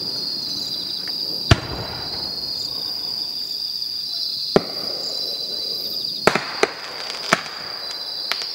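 Fireworks shells bursting in the sky: about six sharp, separate bangs spaced a second or more apart, with a close pair a little past the middle. A steady high chirring of insects runs beneath.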